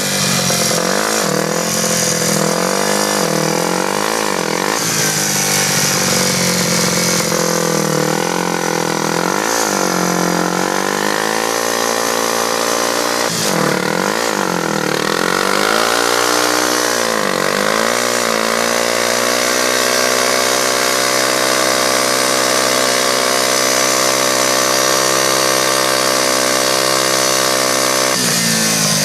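Yamaha TT-R dirt bike's four-stroke single-cylinder engine revved up and down repeatedly, then held at high revs for about ten seconds before dropping back near the end, as during a burnout.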